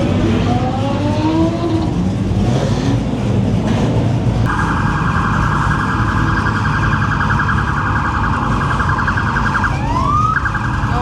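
Police car siren sounding: a rapid pulsing warble cuts in about four and a half seconds in and holds steady, then breaks into a brief rising wail near the end before the warble returns. Low rumble of car engines underneath.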